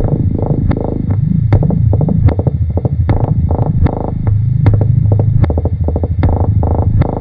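Experimental electronic tape-music piece: a low throbbing hum that wavers in pitch, cut through by sharp clicks about twice a second.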